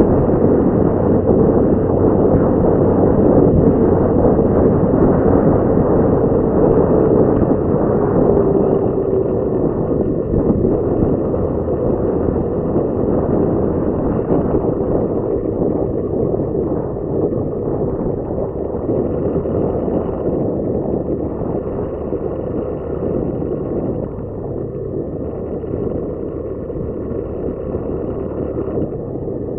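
Motorcycle on the move: the engine runs under a steady rush of wind on the microphone, slowly getting quieter.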